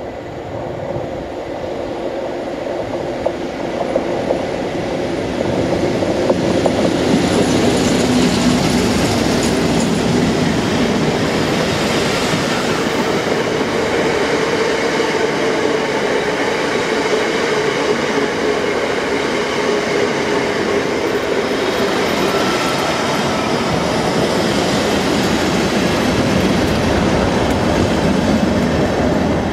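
A diesel-hauled train passes close by: Class 56 locomotive 56303 with its 16-cylinder Ruston diesel approaches and grows louder over the first six seconds or so. Then come the steady rolling wheels of Class 357 electric multiple unit coaches, with Class 37 locomotive 37611, English Electric 12-cylinder diesel, on the rear near the end.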